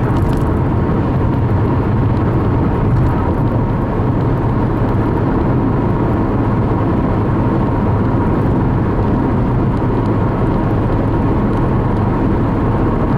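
Steady road noise heard inside a car cabin at highway speed: a deep tyre and engine rumble, with a faint steady high tone over it.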